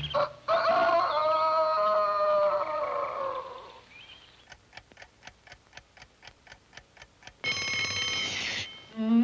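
Cartoon sound effects: a chord of score music fades out, then a clock ticks evenly, about five ticks a second. Near the end an alarm clock bell rings for about a second.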